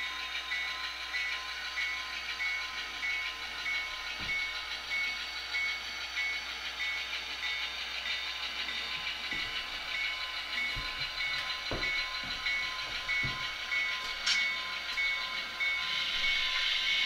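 SoundTraxx Tsunami2 sound decoder in an HO scale Athearn Genesys Norfolk Southern GP40-2 playing its diesel locomotive engine sound through the model's small speaker: a steady running hum with a few faint knocks, and a louder hiss near the end.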